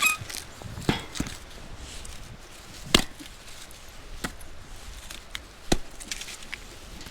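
Firewood being chopped or split: about half a dozen sharp, irregularly spaced knocks, the loudest about three seconds in and again just before six seconds.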